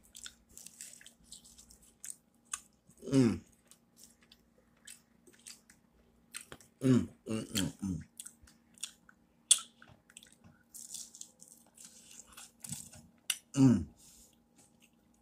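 A person chewing a mouthful of food close to the microphone, with many short wet clicks and smacks. Short hums falling in pitch break in about three seconds in, three together around seven to eight seconds, and once near the end; these are the loudest sounds.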